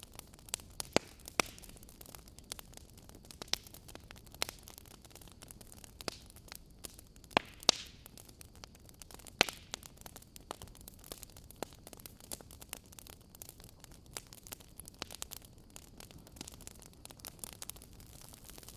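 Wood fire in a fireplace crackling: irregular sharp pops and snaps over a soft steady hiss, the loudest pops near the start and around the middle.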